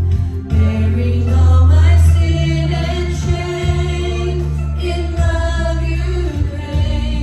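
Worship music: voices singing a song with a steady bass accompaniment.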